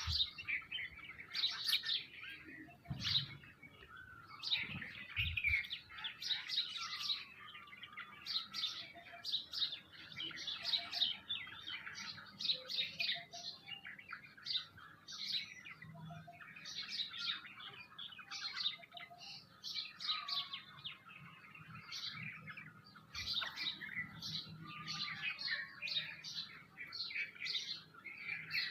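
A flock of small birds chirping continuously, a dense overlapping chatter of short, high chirps.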